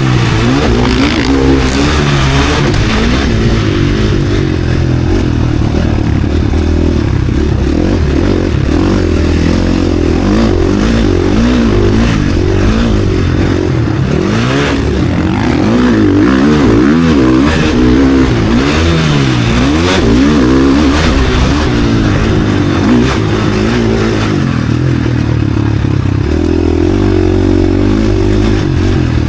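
KTM SX-F Factory Edition four-stroke motocross bike engine being ridden hard, its pitch rising and falling over and over as the rider works the throttle and shifts gears.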